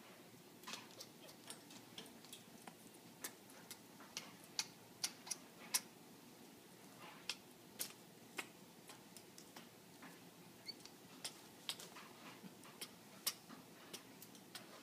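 African grey parrot making a long run of short, sharp clicks at an uneven pace, about two or three a second, as part of its courtship display.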